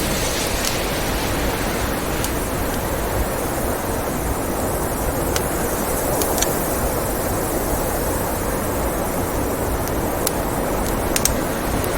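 Steady rush of blizzard wind with a crackling wood fire, its sharp pops scattered every second or few.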